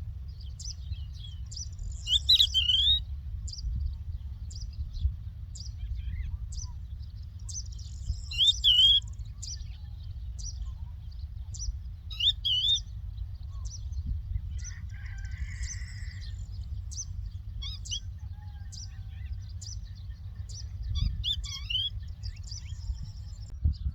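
Lark singing: short high chirps repeating about twice a second, broken by louder warbled phrases four times. A steady low rumble runs underneath.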